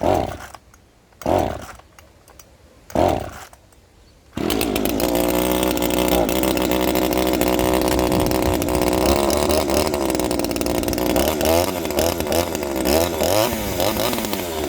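Ozito 25.4cc two-stroke top-handle chainsaw (a Zenoah G2500 type) pull-started without choke, trigger held down: two more sharp pulls on the starter cord, then it catches on the next pull about four seconds in and runs steadily. Its engine speed rises and falls in short revs near the end.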